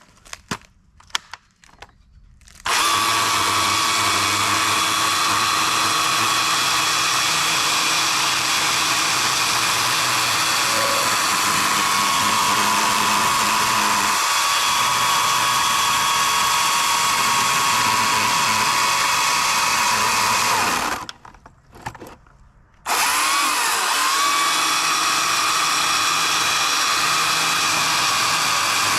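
EGO CS2005 20-inch cordless electric chainsaw running at full speed with a steady high-pitched whine as it cuts firewood. It starts about three seconds in, stops for a couple of seconds near the end, then winds back up and runs on.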